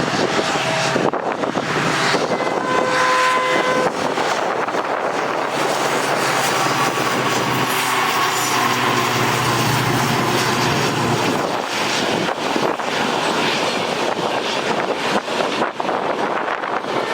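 Express train passing close on the line, hauled by a diesel locomotive: a steady loud rumble of engine and wheels, with a short pitched horn-like tone about two seconds in.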